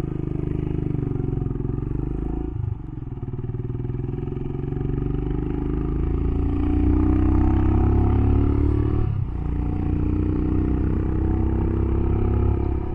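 Royal Enfield Himalayan single-cylinder motorcycle engine pulling away and accelerating, its pitch climbing in each gear, with two brief breaks for gear changes, about two and a half seconds in and about nine seconds in.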